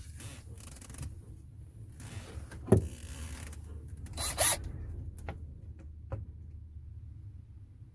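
Handling noises: a sharp knock a few seconds in, then a short rasping scrape and a couple of light clicks, over a steady low rumble.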